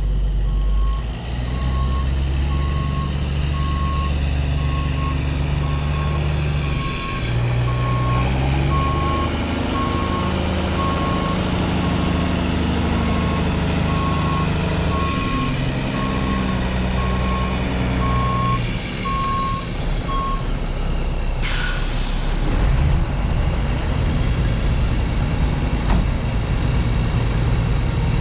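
Heavy diesel engine of a forage harvester running and changing revs while being manoeuvred onto a lowboy trailer, with a reversing alarm beeping about once a second for most of the time. The beeping stops, and about three quarters of the way through there is a short, sharp hiss of air, like an air brake releasing.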